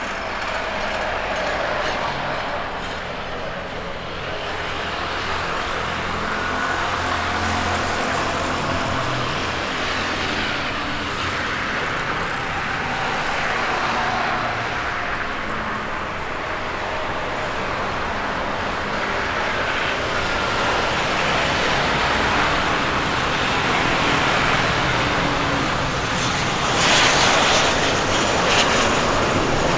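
Boeing 737 jet engines running with a steady rush and a faint whine, growing gradually louder.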